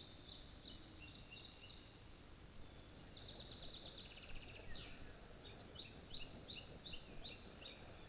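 Faint birdsong over a low steady background noise: small birds chirping, with a rapid trill about three seconds in and a run of quick repeated chirps through the second half.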